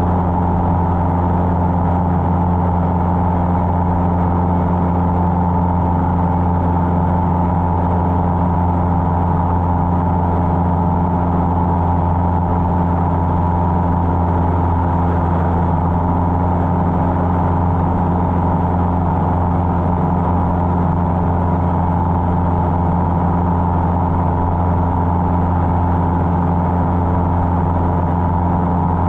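Cessna 150's four-cylinder Continental O-200 engine and propeller running steadily in flight, a constant drone with no change in pitch or power.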